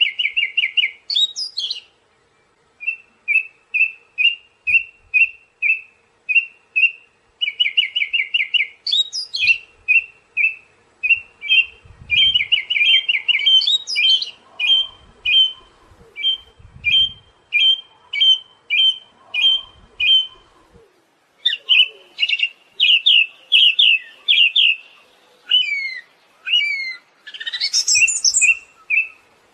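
Siberian thrush singing: long runs of short, quickly repeated notes, broken now and then by high rising sweeps, with a short pause about two seconds in and again after about twenty seconds.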